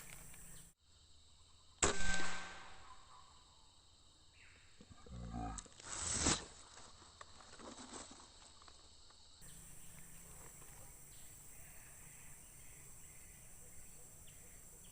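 A single sharp crack of an air rifle shot about two seconds in, followed a few seconds later by a longer, heavier rustling crash. After that there is only a faint, steady outdoor background.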